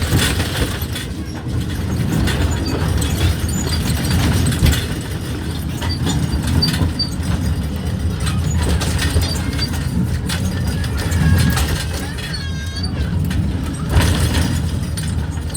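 Small park ride-on train running, with a steady low rumble and light rattling of the cars. A brief high animal call about twelve seconds in.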